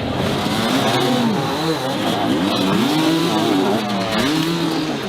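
Enduro dirt bike engine revving hard, its pitch climbing and dropping back again and again as the rider works the throttle.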